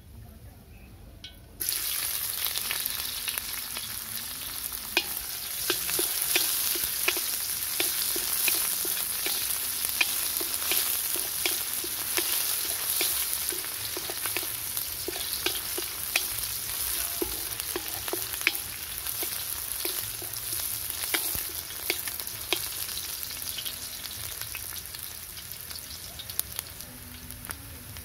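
Sliced onions sizzling in hot oil in a metal kadai. The sizzle starts abruptly about a second and a half in and stays steady, with frequent sharp clicks as a wooden spatula stirs and scrapes against the pan.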